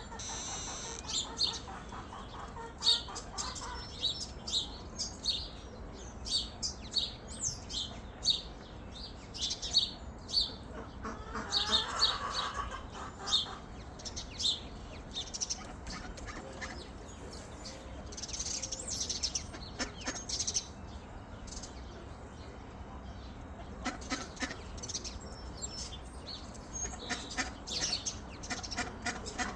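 Chickens clucking as they feed, among many quick short chirps, with a louder call near the middle.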